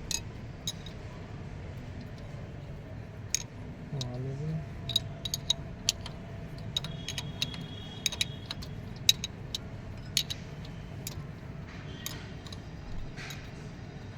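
Irregular sharp metallic clicks and clinks of hand tools and engine parts being handled during engine repair work, over a steady low hum.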